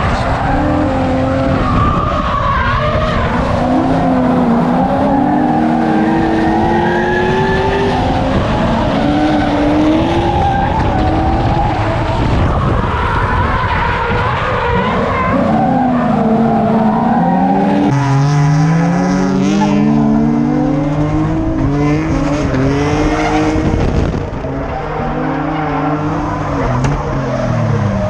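Drift car engines revving up and down hard, with tyres squealing and skidding as the cars slide. The sound is loud throughout and eases a little about six seconds before the end.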